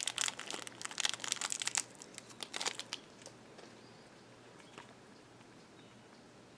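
Crinkly packaging being handled and pulled at to free a small toy accessory, a dense crackling for about three seconds, then only a few faint ticks.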